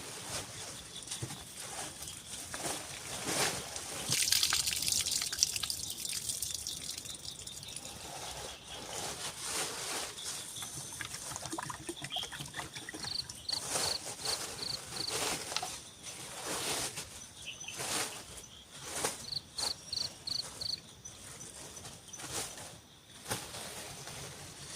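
Irregular knocks and clatter, with water trickling and a louder splashing stretch about four seconds in. A high call of five quick short notes sounds twice in the background.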